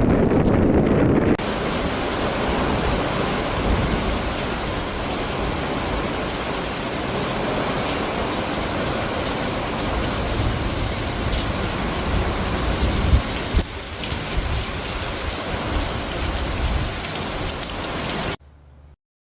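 A low, rushing wind-like noise cuts abruptly, about a second in, to a steady, bright hiss of noise that cuts off suddenly near the end.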